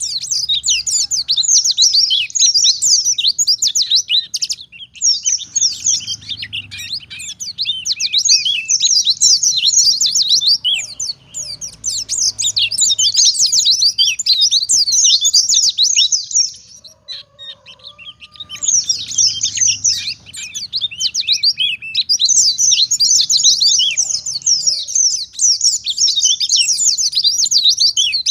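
White-eye (pleci) singing a fast, continuous twittering song of rapid high chirps. It breaks off briefly about five seconds in and for about two seconds in the middle, then carries on.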